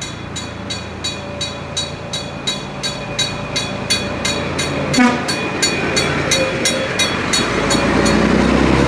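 Narrow-gauge steam locomotive working, with rhythmic exhaust chuffs about three a second that grow louder as the train comes closer. About five seconds in there is a short sharp sound with a falling pitch.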